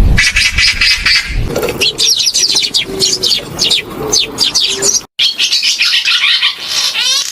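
Several bird recordings spliced together: dense twittering and chirping, then a run of quick downward-sliding chirps over low notes, broken by an abrupt cut about five seconds in, after which dense chirping resumes.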